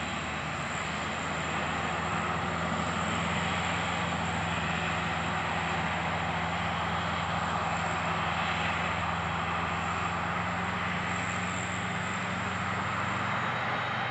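Heavy diesel farm machinery running steadily: a low engine drone with a thin, steady high-pitched whine over it.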